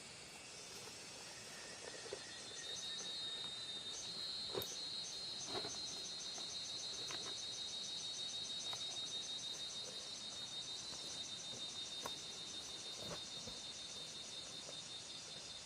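Insects chirring outdoors in a steady, high, rapidly pulsing trill that sets in a couple of seconds in, with a few faint scattered clicks.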